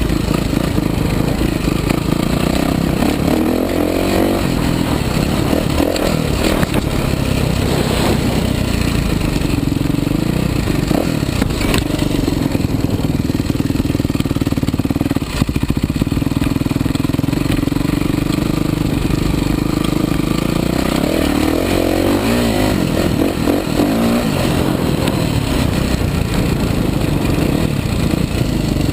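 Kawasaki KX450 motocross bike's four-stroke single-cylinder engine being ridden. It runs steadily and revs up and down with the throttle a few seconds in and again about two-thirds of the way through.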